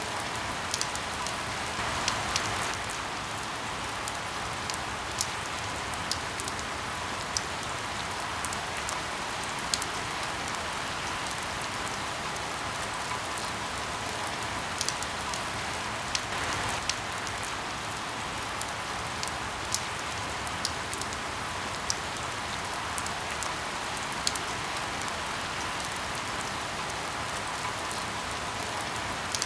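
Steady rain hiss with scattered, irregular sharp pops and crackles of burning firewood.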